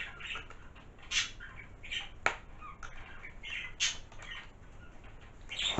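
Plastic and cardboard packaging rustling and crinkling as gifts are handled and put back in a box, in short irregular bursts, with one sharp click about two seconds in.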